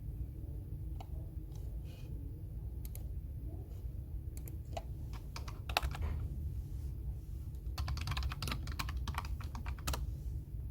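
Typing on a computer keyboard: a few scattered key clicks, then a quicker run of keystrokes in the second half, over a steady low hum.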